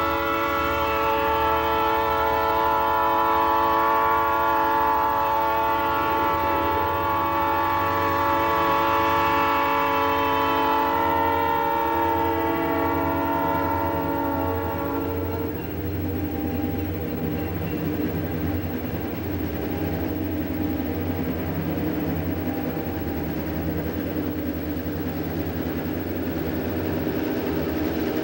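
Passenger train cars rolling slowly past, with a long, steady, shrill tone over a low rumble. The tone fades out about 15 seconds in, leaving the low rumble running on.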